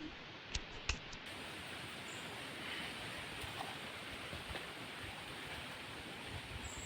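Faint steady outdoor background hiss, with two light clicks in the first second.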